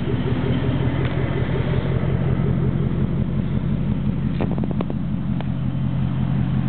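The 6.1-litre HEMI V8 of a 2006 Jeep Grand Cherokee SRT8, fitted with a Magnaflow muffler and DMH exhaust cutouts, idling steadily with a low pulsing exhaust note. A few short clicks come about two-thirds of the way through.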